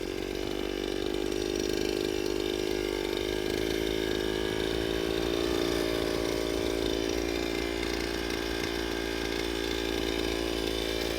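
Small engine running steadily at a constant high speed with a buzzy, even note.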